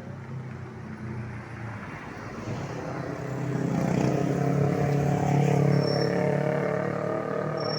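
A motor vehicle engine passing nearby, growing louder to a peak past the middle and then fading.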